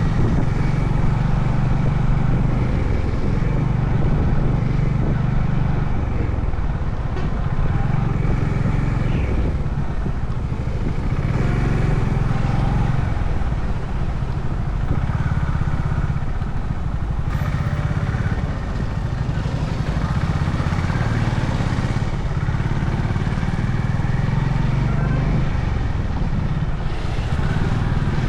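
Honda CB350 H'ness single-cylinder engine running while riding, its note swelling and easing every few seconds, with road noise.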